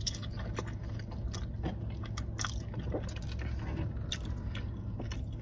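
A person chewing a mouthful of loaded fries topped with fried onions, melted cheese, bacon and jalapeños: irregular small crunches and wet crackles, over a steady low hum.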